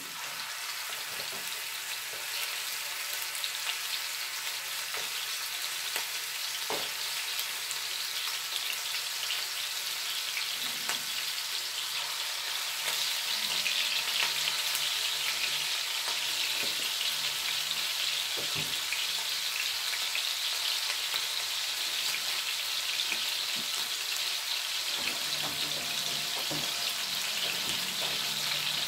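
Turkey meatballs sizzling in hot olive oil in a cast-iron skillet, a dense crackling hiss that grows steadily louder as more meatballs are set into the pan.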